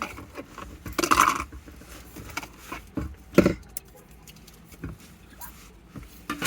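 Scattered light taps and knocks, with a brief louder clatter about a second in and a louder thump about three and a half seconds in.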